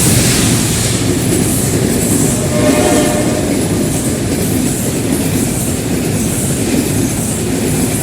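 Passenger train hauled by a General Electric diesel locomotive passing close by, its wheels rumbling and clattering over the rails at a steady loud level.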